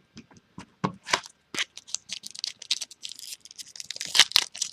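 Trading cards being handled and flicked through, a run of short sharp ticks, then the crinkling of a card pack's wrapper from about three seconds in.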